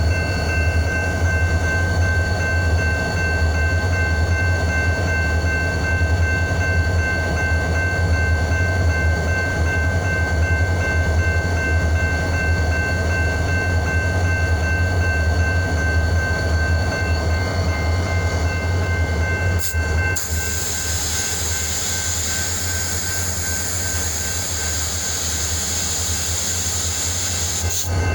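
EMD GP-series diesel-electric locomotive running with a steady low engine rumble. About twenty seconds in, a high hiss starts and carries on for about eight seconds.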